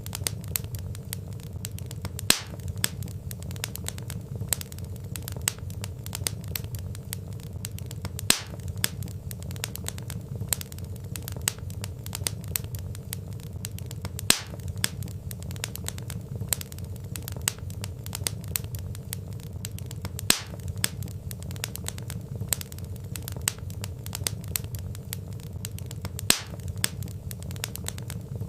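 Wood fire crackling: a dense run of small crackles and snaps over a steady low rumble, with a louder, sharper pop about every six seconds.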